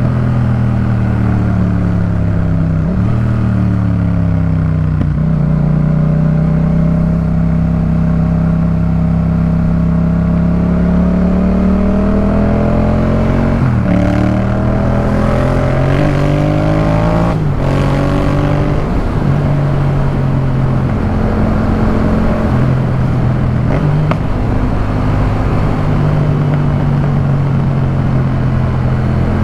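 Yamaha MT-07's 689 cc parallel-twin engine through a Jeskap K4 full aftermarket exhaust, heard from the rider's seat while riding. The engine note falls and rises with the throttle, and in the middle it climbs through several quick gear changes, each one a short break in the pitch.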